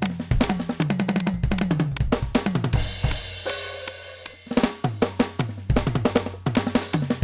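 NUX DM-8 electronic drum kit played in busy fills: rapid snare and bass drum hits and toms that drop in pitch, with a cymbal crash about three seconds in.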